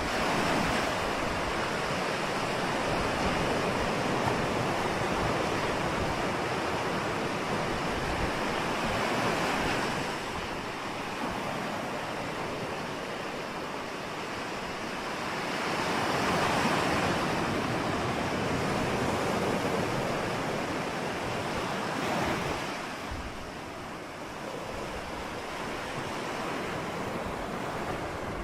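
Ocean waves breaking and washing in, with slow swells in loudness every several seconds as each wave comes in and recedes.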